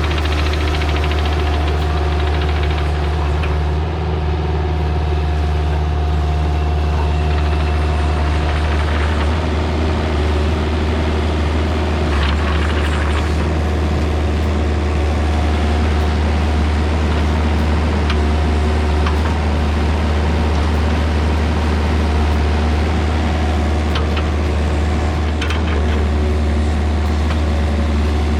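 Engine of an earthmoving machine running steadily under work while clearing ground, a constant deep hum with a few faint knocks.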